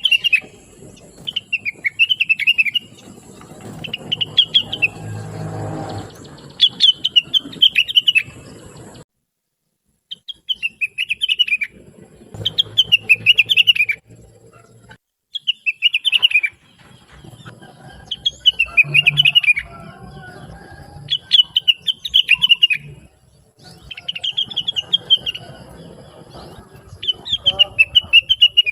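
Blue-winged leafbird (rengganis, cucak wilis) singing: short, rapid, high-pitched chattering phrases repeated about every one and a half seconds, broken by two brief silences.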